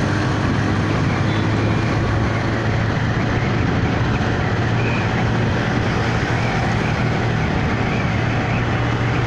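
Steady noise of riding a motorcycle in traffic: an engine running at a constant pace under an even rush of wind and road noise, with no change in speed.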